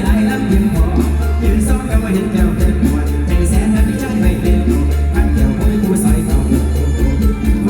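Live mor lam band music with a heavy bass line and a steady drum beat.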